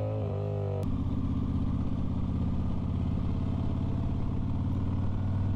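Motorcycle engine on a rider's camera, its note rising briefly as the sport bike accelerates. Just under a second in it cuts abruptly to a cruiser motorcycle's engine running at a steady road speed.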